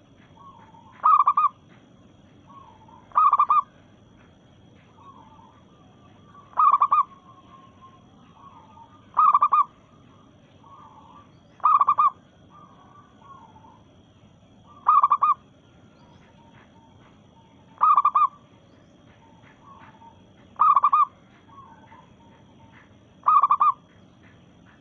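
Female zebra dove (perkutut) calling: a loud, short call repeated nine times, roughly every two to three seconds, with softer warbling notes between. It is the call of a hen calling for a male.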